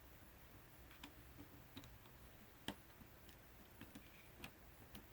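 Faint, scattered clicks and taps of a small bit driver and tiny screws being worked out of a drone's plastic motor arm, with one sharper click about two and a half seconds in.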